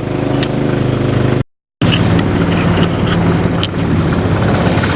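A 6.5 hp Predator single-cylinder four-stroke engine on a mud motor runs steadily, pushing the boat upriver, with some wind on the microphone. The sound drops out completely for a moment about a second and a half in.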